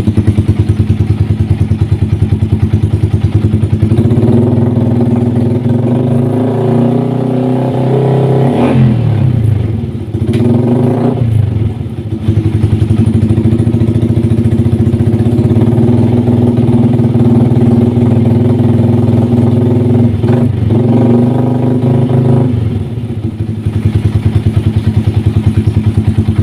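Yamaha R15's single-cylinder four-stroke engine running through an aftermarket stainless-steel racing exhaust with a full baffle. It idles with a pulsing beat, then is held at raised revs. The throttle is blipped twice around ten seconds in and once more briefly near twenty seconds, and the engine drops back to idle near the end.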